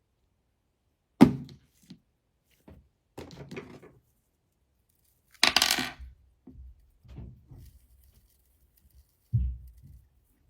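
Small objects being handled on a hard surface: a sharp knock about a second in, brief rustling, a louder clatter near the middle and a dull thump near the end.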